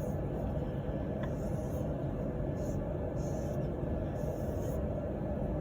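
Steady low rumbling background noise, like a running fan or heater, with faint soft swishes coming and going about once a second.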